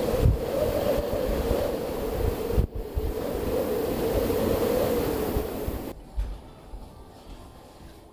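Storm wind blowing hard, a steady rushing roar with a wavering howl, broken once by a brief dip. It gives way to a much quieter room about six seconds in.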